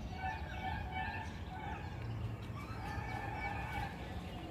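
Birds calling: several drawn-out calls and many quick chirps over steady low background noise.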